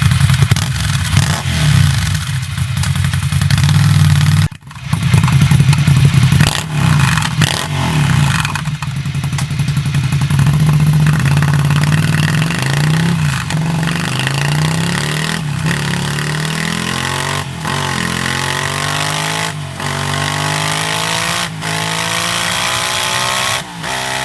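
Ducati Scrambler 800's air-cooled L-twin engine through its exhaust, first running and being revved in swells, then accelerating hard through the gears: the note rises and drops back at each upshift, about every two seconds.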